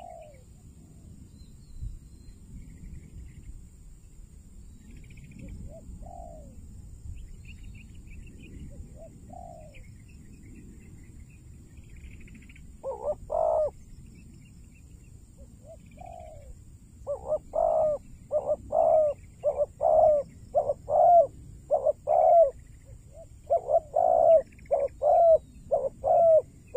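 Spotted doves cooing. The coos are faint and spaced out at first. About halfway in, loud, close coos start coming in quick runs. Faint high chirps of small birds sound alongside.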